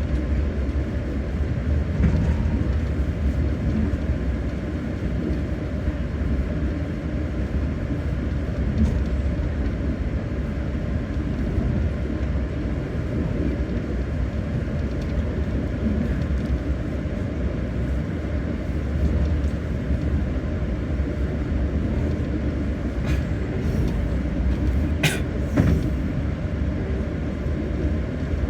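Passenger train running: a steady low rumble from the carriage travelling on the rails, with a brief sharp higher-pitched sound near the end.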